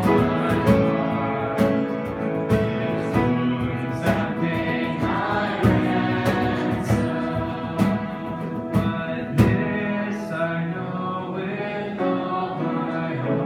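Worship song: several voices singing together over instrumental accompaniment, with sharp rhythmic strokes that fade out in the last few seconds.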